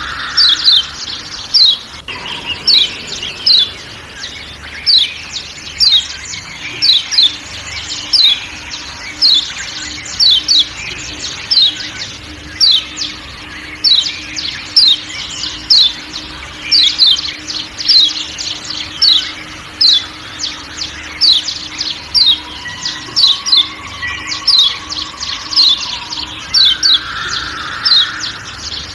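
Kecial kuning (Lombok yellow white-eye, a Zosterops) giving its sharp 'ciak ciak' calls: quick falling chirps repeated about twice a second, sometimes in close pairs, over a faint forest background.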